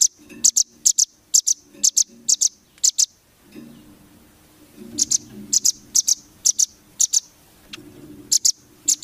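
A small songbird's sharp, very short, high chirps, fired in quick pairs and triplets with a pause of about two seconds midway.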